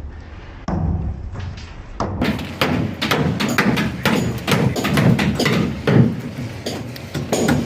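Irregular knocks and thuds from manual construction work on a concrete slab, a few at first, then coming thick and fast after about two seconds.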